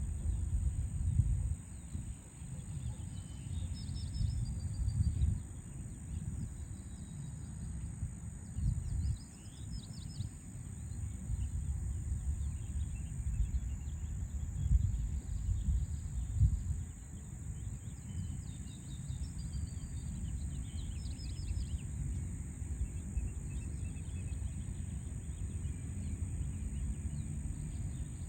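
Birds chirping in short scattered bursts over a steady, fluctuating low rumble of background city noise, with a constant high-pitched whine.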